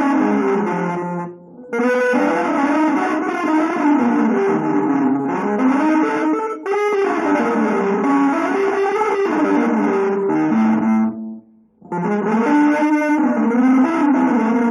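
A guitar playing quick melodic runs that wind up and down, with a short break about a second and a half in and another near twelve seconds.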